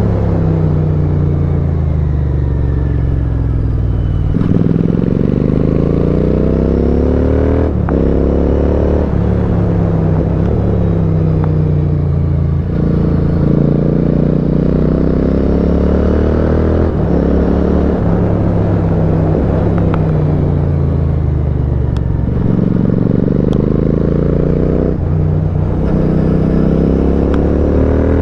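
Royal Enfield Continental GT 650's 648 cc parallel-twin engine through an aftermarket custom exhaust, under way. The revs climb and fall repeatedly, with several brief breaks where gears change.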